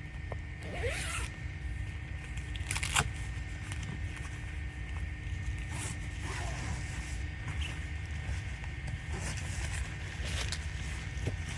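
A zipper being pulled in short strokes, four of them a few seconds apart, over a steady low rumble.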